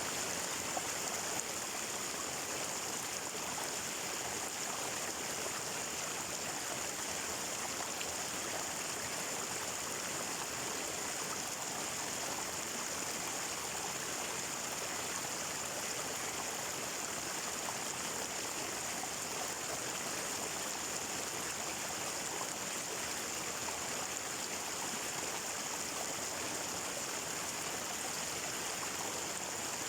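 Flowing water of a stream, a steady rushing with no breaks.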